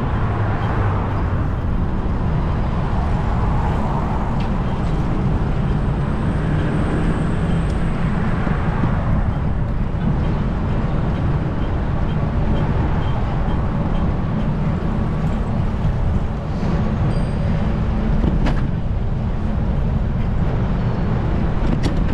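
Steady low rumble of wind on the microphone and road noise from a moving bicycle, with city traffic around it.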